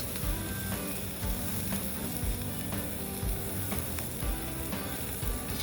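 Meat sizzling on a hot steel plate, a steady frying hiss, with background music that has a steady beat.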